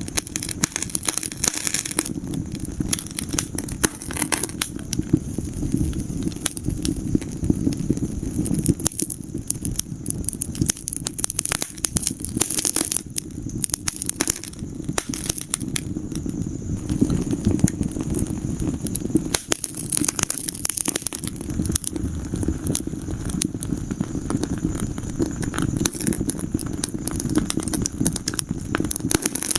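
Wood fire in a fireplace crackling: dense, irregular pops and snaps over a steady low rush of the flames.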